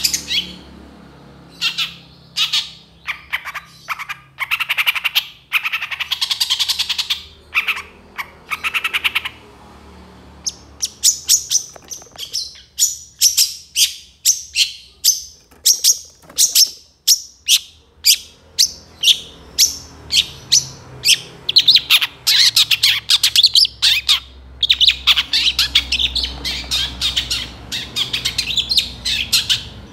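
Long-tailed shrike (cendet) singing vigorously: fast runs of short, sharp, chattering notes, broken by brief pauses.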